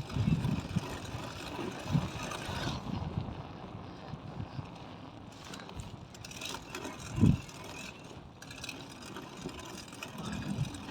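Bicycle being ridden, picked up by a phone mounted on the handlebars: a steady rushing with scattered low thumps, the loudest about seven seconds in.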